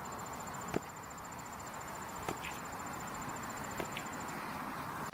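Cricket chirring in a fast, even, high-pitched pulse train over a steady background hiss, with a few faint clicks; the chirring stops near the end.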